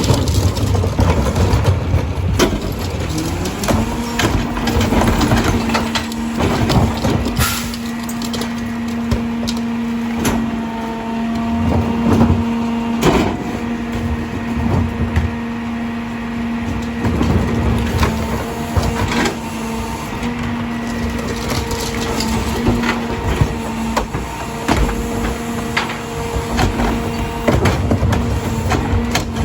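Rear-loader garbage truck packing a load: the engine speeds up and a steady hydraulic whine rises in pitch and then holds for most of the stretch while the Heil DuraPack packer blade compacts refuse. Loose trash and recycling crack and crunch in the hopper throughout, and the whine stops shortly before the end.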